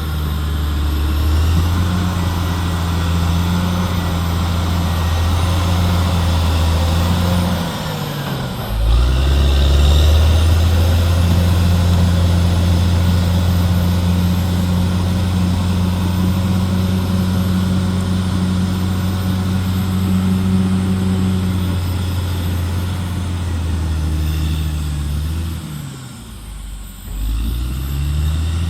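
Caterpillar D6R XL bulldozer's diesel engine running steadily under load. Its pitch drops and climbs back up about eight seconds in, and again near the end, where it also briefly goes quieter.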